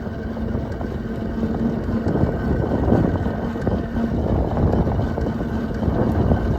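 Wind rushing over the microphone while riding an electric dual-sport motorbike at about 13 mph, with a faint steady whine from its electric motor.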